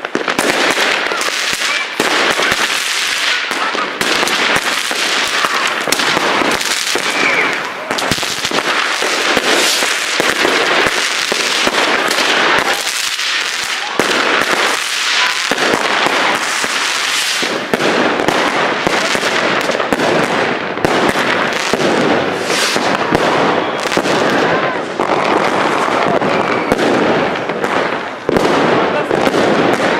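Fireworks and firecrackers going off in a dense, unbroken barrage of bangs and crackles, many reports every second.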